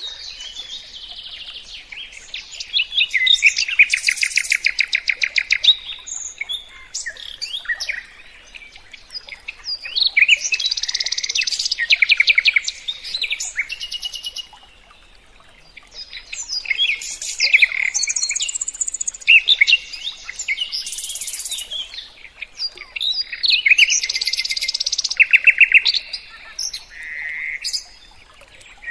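A songbird singing long, varied phrases of rapid trills and chirps, in bursts of several seconds broken by short pauses.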